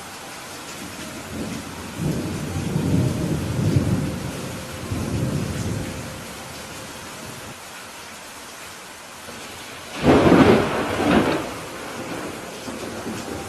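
Steady rain with thunder: a low rumble rolls in and out over a few seconds, then a louder, sharper thunderclap comes about ten seconds in.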